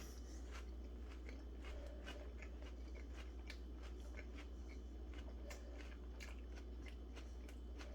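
A person chewing a mouthful of a chicken sandwich: faint, irregular wet clicks and crunches, over a steady low hum.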